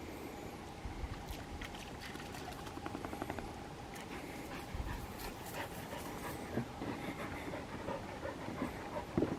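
A dog panting close by, in quick irregular runs of breaths, with scattered small clicks and rustles.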